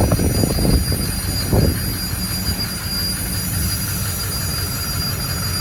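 Large car-wash vacuum motor running steadily: a high whine over a low rumble, with a few low bumps in the first couple of seconds.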